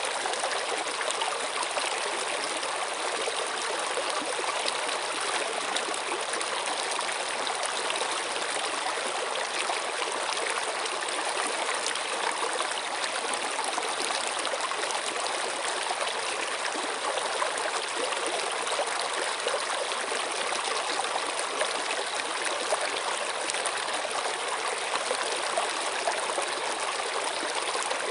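Running water flowing steadily, an even hiss that doesn't change.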